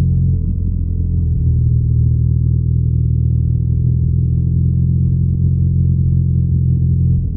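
BMW R nineT's air/oil-cooled boxer-twin engine and exhaust running steadily under way, a deep low note with a slight change in the engine note about half a second in and again near the end.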